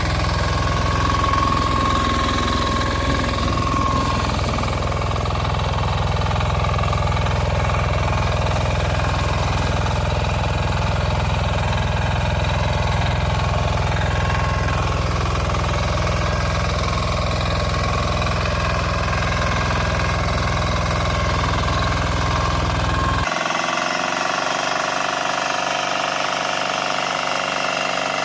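Small engine of a walk-behind tractor running steadily. About 23 seconds in it cuts abruptly to another engine sound, thinner and with less low rumble.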